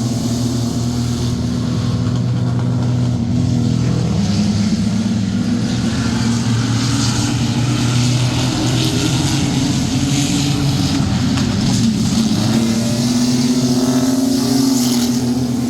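A pack of racing sport trucks, several engines running hard together at steady high revs, with their pitch swelling and easing slightly as the trucks come around.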